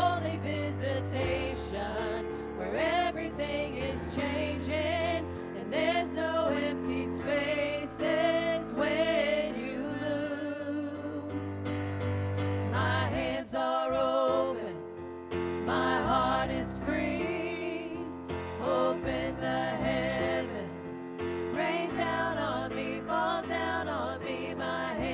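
Live church worship band playing a slow song: sustained keyboard chords and bass notes that change every few seconds, under a singer's held, wavering notes.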